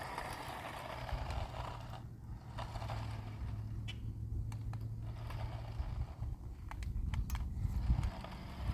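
Toy RC car driving over pavement: its small motor and gears whirring and plastic wheels scraping, with scattered clicks and a low steady hum that fades about six seconds in.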